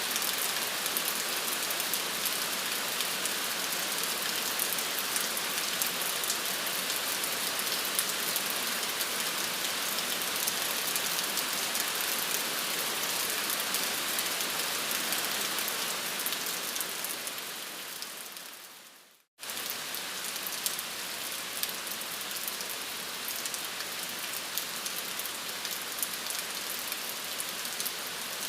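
Steady rain falling on a surface, an even hiss with fine pattering drops. About two-thirds of the way through it fades out to a moment of silence, then comes back suddenly, slightly quieter.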